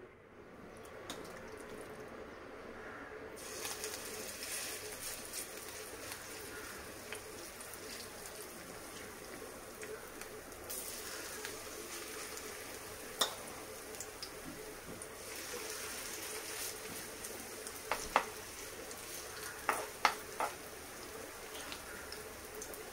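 Semolina-and-vegetable batter shallow-frying in oil in a non-stick pan: a steady sizzle that comes in after a few seconds. A steel spoon clicks against the pan once about thirteen seconds in and several times near the end as more batter is spooned in.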